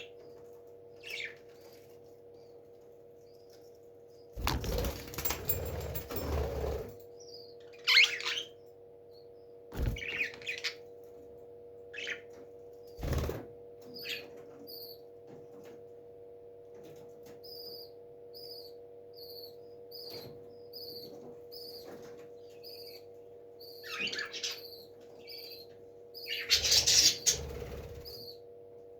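Parrot in a nest box: two bursts of rustling and wing flapping, a few short sharp calls, and a run of short high chirps about once a second. A steady hum runs underneath.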